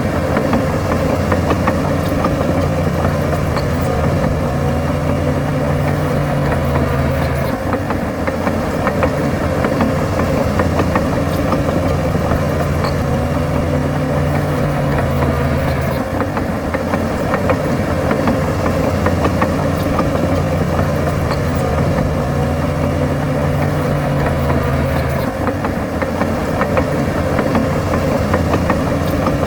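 Bulldozer's diesel engine working continuously. Its note holds steady for several seconds, then drops and shifts about every eight or nine seconds as the load changes, with faint clicks and clanks over it.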